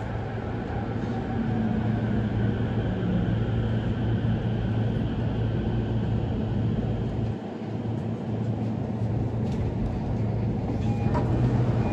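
Running sound of a JR East E231-500 series electric commuter train heard from inside the passenger car: a steady rumble of wheels on the rails with a low hum.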